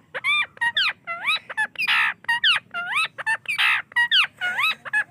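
Parrot chattering: a quick run of short whistled calls that swoop up and down in pitch, broken by two harsh squawks about two and three and a half seconds in.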